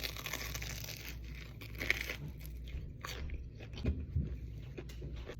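Close-up crunching and chewing of a battered Korean corn dog's crispy crust, with a few sharper bites.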